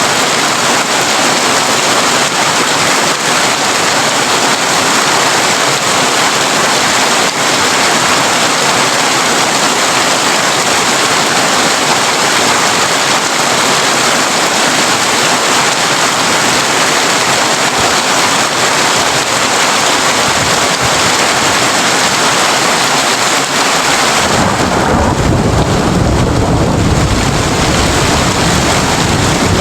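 Heavy rain drumming steadily on a corrugated tin roof. About 24 seconds in, a deep rumble of thunder rolls in under the rain.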